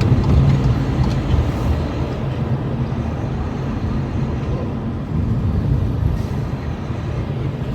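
Car driving along, a steady low engine and road rumble heard from inside the cabin.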